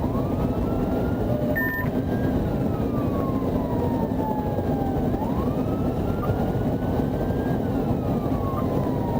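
Police car siren in wail mode, its pitch rising for about two seconds and falling for about three, cycling about every five seconds over steady road and engine noise. A brief beep sounds just under two seconds in.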